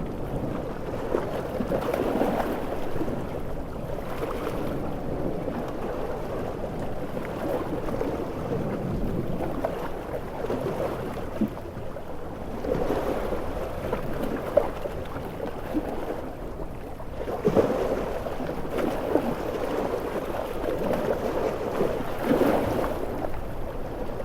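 Heavy surf: large ocean waves surging and breaking every few seconds over a continuous wash of water and wind.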